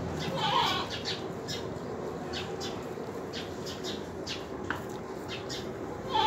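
Birds chirping in short, scattered calls, with a brief louder call about half a second in.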